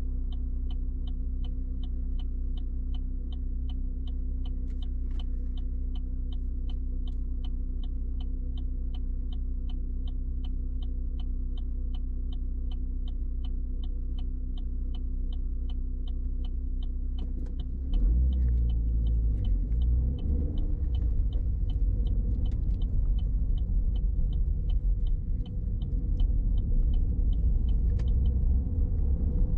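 A car's turn-signal indicator ticks steadily, two to three ticks a second, over the steady hum of the idling engine. About eighteen seconds in, the car pulls away and the engine and road rumble grow louder. The ticking stops near the end, as the indicator cancels.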